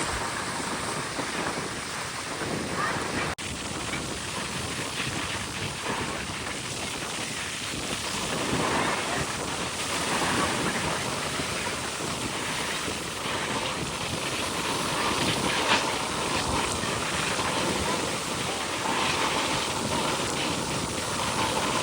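Wind buffeting the microphone over steady surf noise, with faint voices now and then.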